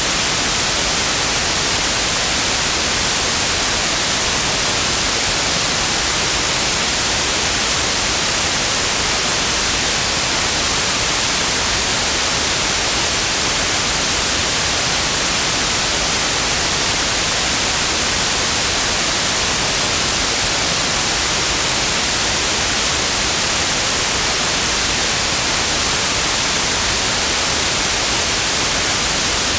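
Synthetic white noise: a loud, perfectly steady hiss with no changes.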